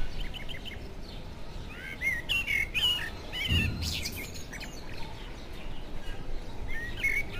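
Small birds chirping: a quick run of short high notes at the start, scattered twittering chirps through the middle and again near the end, with a brief low rumble about three and a half seconds in.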